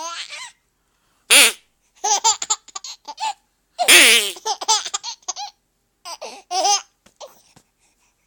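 A five-month-old baby giggling in several short runs of breathy, high laughs, with two short, louder, harsher sounds about one and a half and four seconds in.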